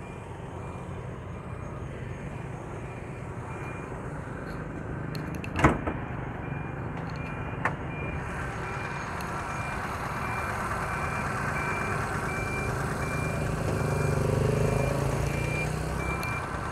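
Hyundai Getz's four-cylinder petrol engine idling steadily at about 1000 rpm, with a faint high beep repeating evenly and a sharp click about five and a half seconds in.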